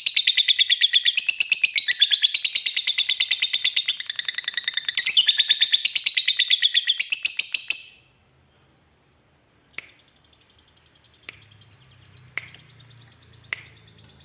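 Lovebird's long chattering 'ngekek' trill: a fast, even string of high, harsh notes at about ten a second, breaking off about eight seconds in. A few short, sharp chirps follow.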